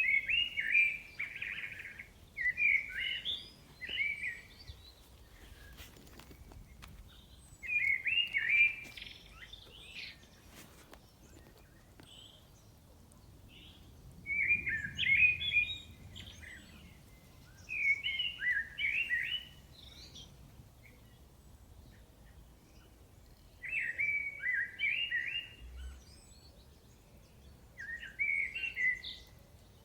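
A songbird singing short phrases of rapid, varied notes, each lasting a second or two, repeated with pauses of a few seconds between them, over a faint steady outdoor background.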